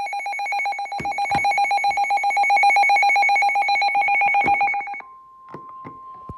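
Weather radio alert: a loud electronic alarm rings in rapid pulses for about five seconds, then cuts off and gives way to a steady single-pitch alert tone, the NOAA Weather Radio warning tone that comes before a broadcast severe thunderstorm warning. A few knocks come through the alarm.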